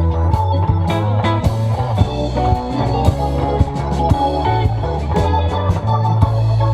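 Live rock band playing an instrumental passage: guitar to the fore over bass and drums.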